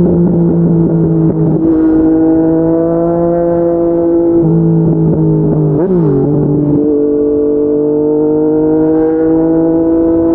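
Yamaha MT-09's three-cylinder engine with an aftermarket slip-on exhaust, ridden under steady throttle with its pitch slowly climbing. About six seconds in the revs briefly dip, then it pulls steadily again.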